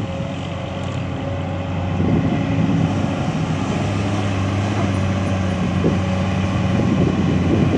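Komatsu PC200 hydraulic excavator's diesel engine running with a steady hum, rising to a louder, heavier working note about two seconds in as it takes on load.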